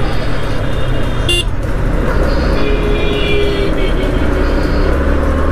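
Yamaha MT-15's 155 cc single-cylinder engine running steadily at low speed in traffic. A vehicle horn toots briefly a little over a second in and again, longer, around three seconds in.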